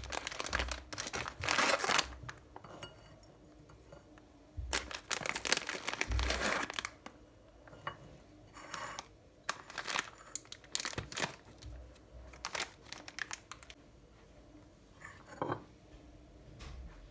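Crinkling and rustling of something being handled, in two louder bursts in the first couple of seconds and again around five to seven seconds in, then quieter scattered rustles and small clicks.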